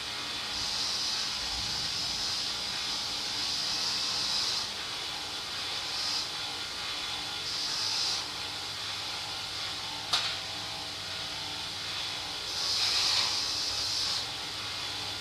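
Pressurised spray hissing in bursts of a second or more, as carburettor parts are cleaned, with one sharp click about two-thirds of the way through. A steady low hum runs underneath.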